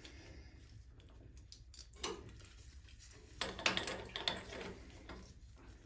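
Metal parts clinking and knocking as they are handled: one knock about two seconds in and a quick cluster of several clinks a second or so later, over a steady low hum.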